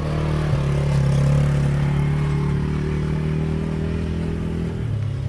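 Quad bike (ATV) engine running at a steady pitch, its note dropping slightly near the end as the throttle eases.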